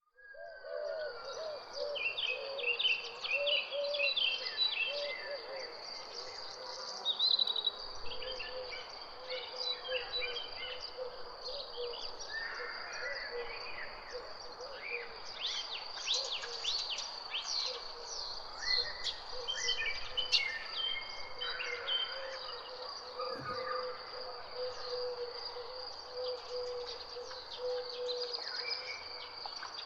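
Birds chirping and singing in many short calls and trills over a steady, high, continuous insect drone, with a lower warbling call repeating through most of the stretch.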